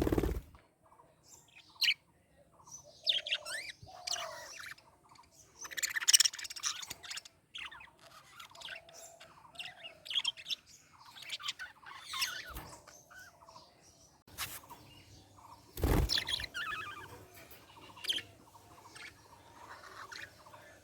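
Budgerigars chirping and warbling in a run of short, quick calls, with a brief louder burst about 16 seconds in.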